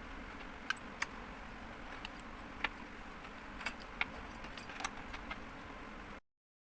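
Scattered light clicks and clinks of small hard objects over a steady low background hum, stopping dead about six seconds in.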